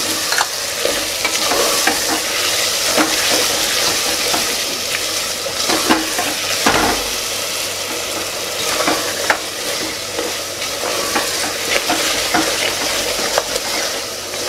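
Spiced mixed vegetables sizzling in an open aluminium pressure cooker as they are stirred, with a steady hiss and scattered scrapes and clicks of the utensil against the pot.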